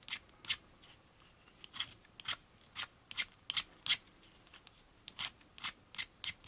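Short, quick scraping strokes of a hand tool along the edge of a plastic model part, about a dozen in irregular bunches, trimming off flash and molding ridges.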